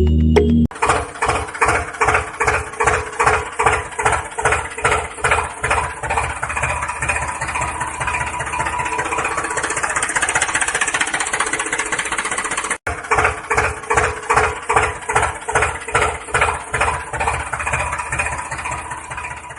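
Tractor engine running with a rhythmic chugging, about two to three beats a second. It evens out into a steadier run midway, breaks off for an instant, then chugs again before fading out at the end.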